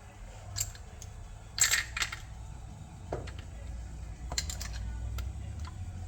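Plastic Lego bricks being handled: a few sharp clicks and clatters, the loudest about a second and a half in and a quick cluster of them a little past the middle.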